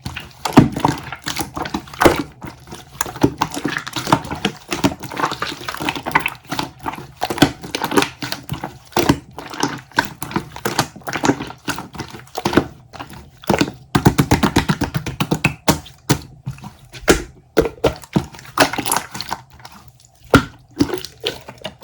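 Slime being squeezed, stretched and poked by hand, giving a dense run of short wet clicks and crackles.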